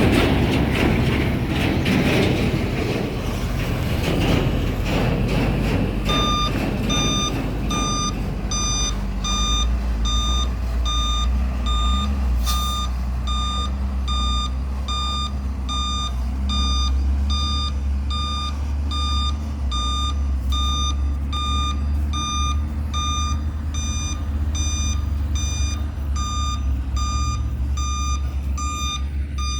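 Truck engine running, with a reversing alarm starting about six seconds in and beeping steadily about one and a half times a second over a low engine hum.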